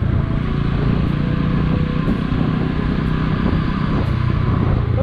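Motorcycle engine running steadily while the bike rides along, heard from the rider's position, under a steady rushing hiss of wind and road noise.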